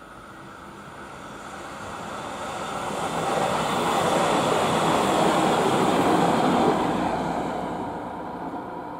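Electric express train passing close by: its running noise on the rails builds over the first few seconds, is loudest from about four to seven seconds in, then fades as it goes past.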